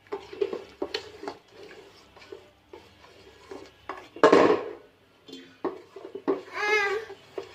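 Kitchenware clinking and knocking: utensils against a pot or bowl, with one louder clatter about four seconds in and a short wavering squeal near the end.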